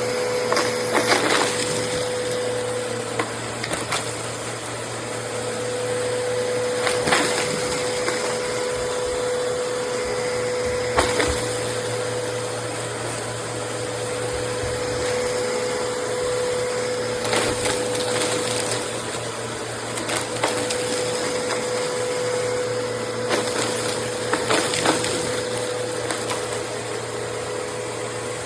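Bissell CleanView upright bagless vacuum cleaner running steadily, its motor giving a constant hum with a steady whine, with a few brief knocks along the way.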